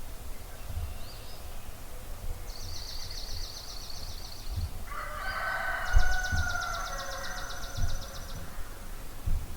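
Dawn birdsong: a rooster crows once in the middle, while a small songbird gives two high, rapid, evenly pulsed trills, one before the crow and one over it.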